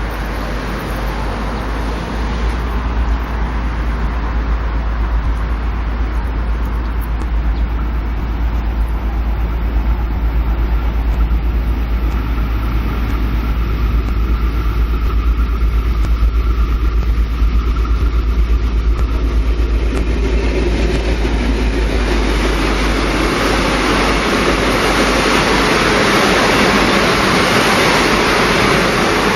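V/Line passenger train running past: a steady rumble with a faint hum in the middle, growing louder over the last several seconds as the train draws nearest.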